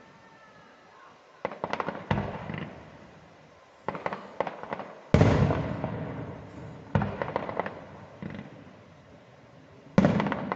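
Fireworks display: quick volleys of sharp bangs and crackles. The loudest is a single heavy boom about five seconds in, followed by a long rumbling echo that slowly fades.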